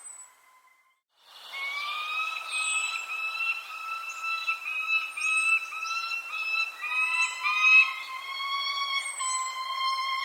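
Birds calling: a steady chorus of repeated whistled calls with overtones, and short high chirps over it. The sound drops almost to silence for about a second near the start, then comes back.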